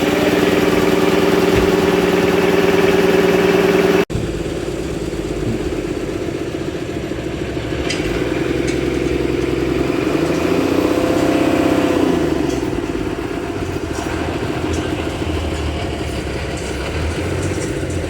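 Engine running steadily; after a sudden cut about four seconds in, a second engine sound continues, briefly rising and then falling in pitch around the middle.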